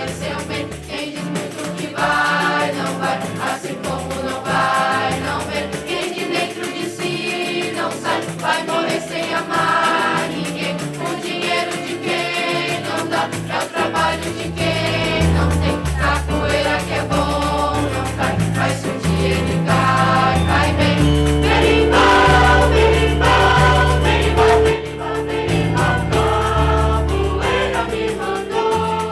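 A choir singing with instrumental accompaniment; a low bass line comes in about halfway through.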